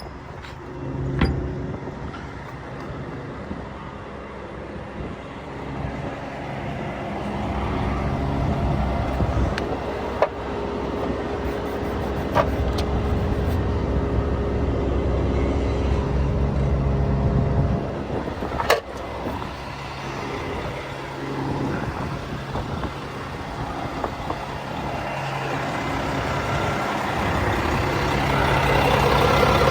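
Volvo FH 420 truck's 13-litre six-cylinder diesel running, its note swelling and easing off over the stretch, with a few sharp clicks along the way.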